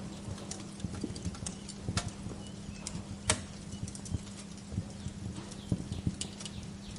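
Wood fire crackling in a fireplace: irregular sharp pops and snaps, with one louder pop about three seconds in, over a steady low hum and soft hiss.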